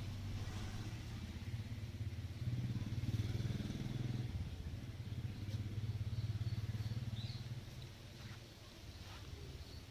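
A low engine running with a fast, even pulse, dropping away about three quarters of the way through.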